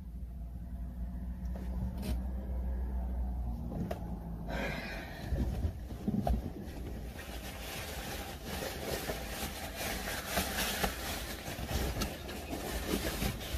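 Car engine idling, heard from inside the cabin as a steady low hum. About four and a half seconds in, a steady rushing noise joins it, with a few soft knocks.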